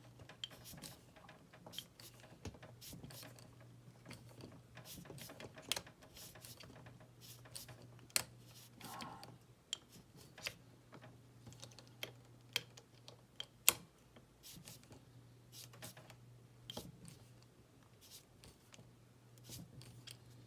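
Irregular small clicks and taps of a hand screwdriver working small screws into a plastic model part while it is handled and turned. A faint steady low hum runs underneath.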